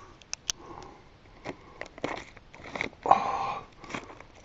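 Ink pen poking and scraping at money jammed in the slot of a pay box: scattered clicks and taps, with a longer rustling scrape about three seconds in.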